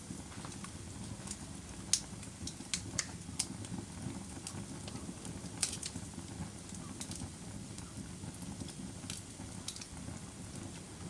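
Wood fire burning in a fireplace: a steady low rumble of flames with irregular crackles and sharp pops, the sharpest about two seconds in and again near the middle.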